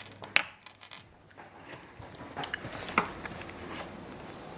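Chewing and crunching a hard-shelled chocolate rock candy, with a sharp crack about half a second in, another about three seconds in, and small clicks between.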